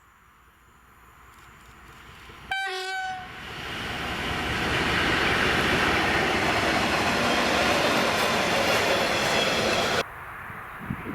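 SM42 diesel shunting locomotive hauling a track machine gives one short horn blast as it approaches. Its passing rumble and rail noise then build quickly and stay loud as it goes by close to the track. The sound cuts off suddenly near the end.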